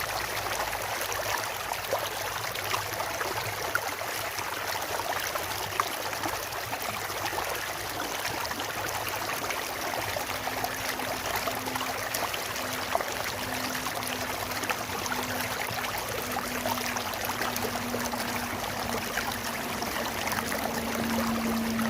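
Stream water rushing and splashing steadily over rocks. From about halfway through, a low steady hum grows slowly louder under the water.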